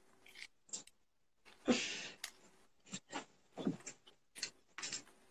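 A person chewing a mouthful of crunchy fried ramen and sausage: short, irregular crunching bites with gaps between, the loudest about two seconds in.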